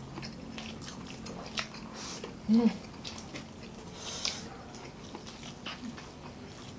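Several people chewing and crunching crispy crisscut fries, with scattered short crunches and mouth noises. A brief voiced hum about two and a half seconds in is the loudest sound.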